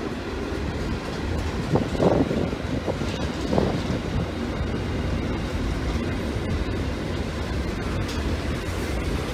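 Freight train of hopper wagons rolling past, a steady rumble of steel wheels on the rails, with brief louder moments about two seconds and three and a half seconds in.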